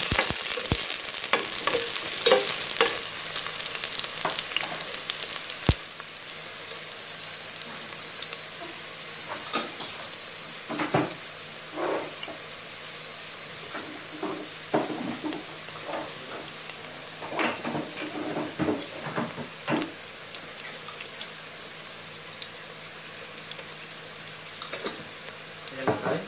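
Sliced red onions and whole spices frying in hot oil in a stainless steel pot: a spatula stirs and scrapes the pot for the first few seconds, then a steady sizzle with scattered crackles.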